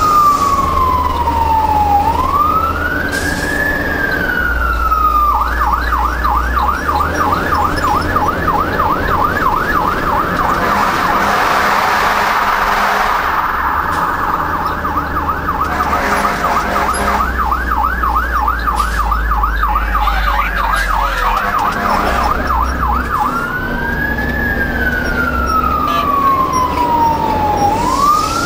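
Fire truck's electronic siren on a slow wail, switching about five seconds in to a fast yelp of about three sweeps a second, then back to the wail near the end, over the truck's low diesel engine rumble, heard from aboard the responding truck.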